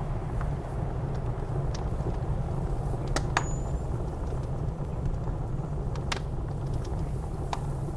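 Wood fire in a fireplace crackling, with a few sharp pops (about three seconds in, again soon after, and twice more near the end), over a steady low rumble of blizzard wind.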